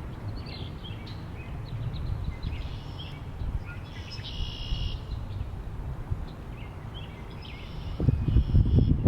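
Wind buffeting the microphone with a steady low rumble that grows louder in a gust near the end, while small songbirds chirp and trill; one clear buzzy trill comes about halfway through.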